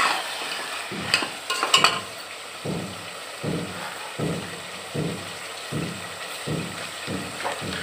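Chicken frying in oil with onion and ginger-garlic in a metal pot: a steady sizzle, with a perforated metal ladle scraping and stirring through it in the first two seconds. After that the sizzle carries on alone, with soft low thumps about once every three-quarters of a second.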